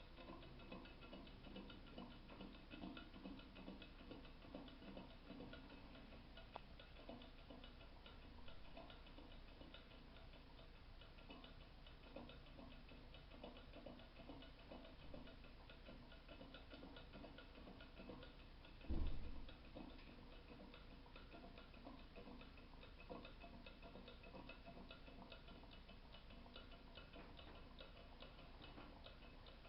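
Small candle-powered Stirling engine fan running, its mechanism making a faint, rapid ticking. A single low thump about two-thirds of the way through.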